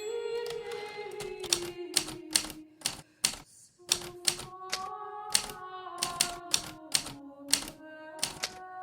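Hermes Baby manual typewriter keys striking at an irregular typing pace, about two to three strokes a second, over soft background music with sustained notes that drops out briefly about three seconds in.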